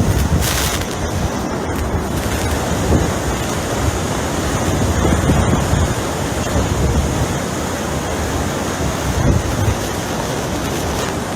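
Hurricane-force wind blasting the microphone in repeated gusts, over a steady rush of wind-driven noise.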